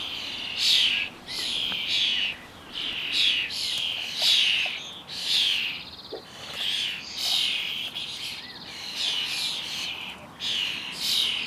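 A juvenile European starling begging for food with harsh, scratchy calls, repeated about once a second.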